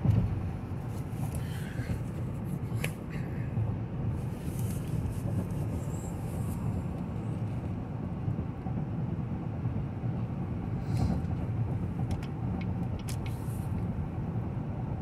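Steady road and tyre noise with a low drivetrain hum, heard from inside the cabin of a 2018 GMC Yukon Denali cruising at about 63 mph on cruise control. A few faint ticks come over it.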